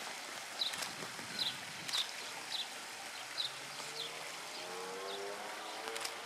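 A small bird chirping outdoors in short, high, repeated notes, roughly two a second. A faint steady hum comes in over the last couple of seconds.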